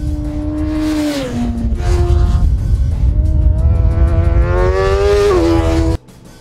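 Sport bike engine at high revs: the pitch holds, drops about a second in, then climbs steadily under acceleration and falls sharply at a gear change about five seconds in, over a heavy rumble of wind. The sound cuts off suddenly near the end.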